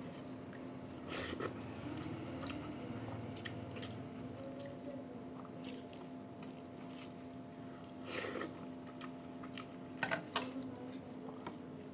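A person eating, chewing with scattered small mouth clicks and smacks; a short cluster of louder smacks comes a little after 8 s and again around 10 s.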